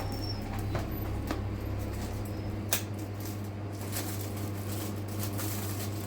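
Steady low hum with scattered short clicks and light rustling, the sharpest click about two and a half seconds in.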